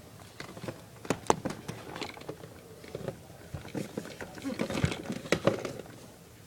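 Scattered clicks and taps of plastic toy parts being handled, with a quiet voice in places.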